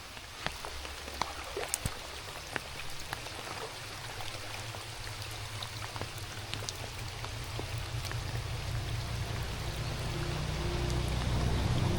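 Steady rain falling, with many separate raindrops ticking sharply close by. A low rumble builds and grows louder through the second half.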